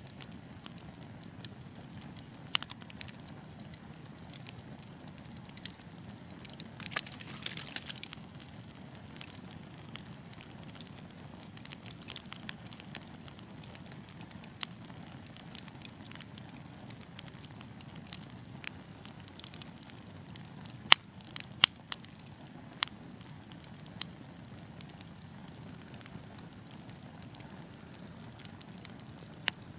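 Wood fire burning in a fireplace: a steady low rumble of flames with scattered crackles and pops, a brief hiss about a quarter of the way in, and a cluster of loud snaps about two thirds of the way through.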